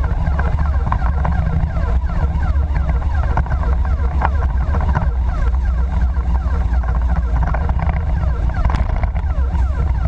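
Fire engine driving: a steady, heavy low engine and road rumble.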